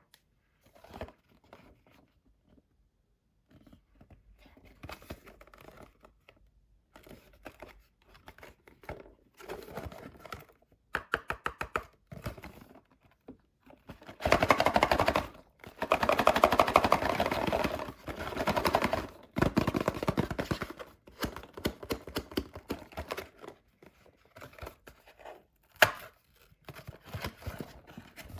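Surprise eggs being unwrapped by hand: foil wrappers crinkling and tearing, with small clicks and taps in between. The rustling is densest and loudest in the middle.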